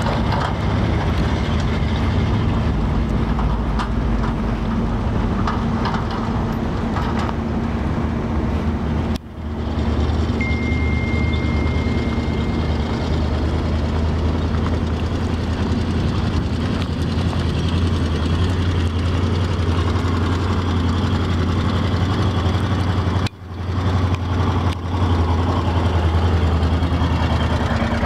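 International grain truck's engine running steadily. The sound drops out briefly twice, once about nine seconds in and again near the end, and a thin high whine sounds for about two seconds a little after the first drop.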